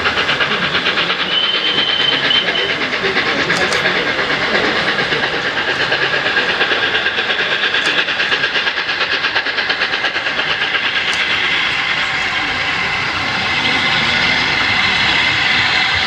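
The Flying Scotsman, an LNER Class A3 4-6-2 steam locomotive, running with its train, with a fast, even pulsing that gives way to a steadier rush from about twelve seconds in. A brief high note sounds about a second and a half in.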